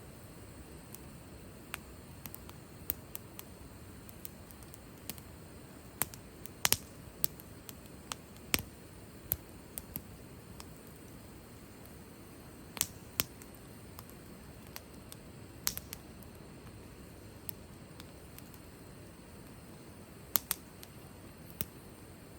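Wood fire crackling in a fire pit: irregular sharp pops and snaps, a few of them loud, over a low steady hiss of burning.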